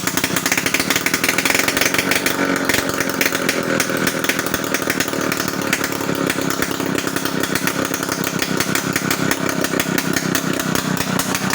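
Bajaj two-stroke autorickshaw engine running at a steady idle, loud, with fast even firing pulses. The noise comes out largely unmuffled because the exhaust bend pipe is full of holes.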